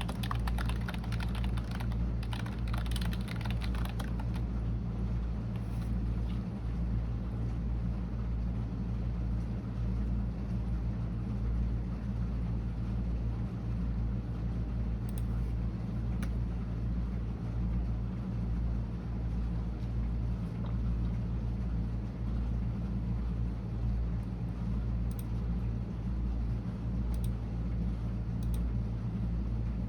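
Typing on a computer keyboard, a fast run of key clicks that stops about four seconds in. After that a steady low hum carries on, with only a few single key taps now and then.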